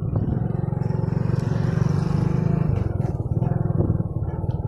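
Motorcycle engine running steadily, a low rapid pulsing rumble.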